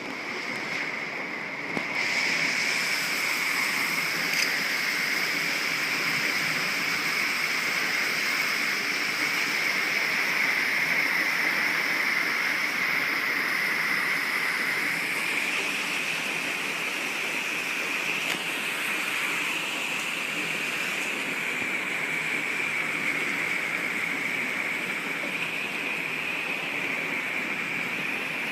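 Heavy rain pouring down in a thunderstorm, a steady rushing hiss that grows louder about two seconds in and stays heavy.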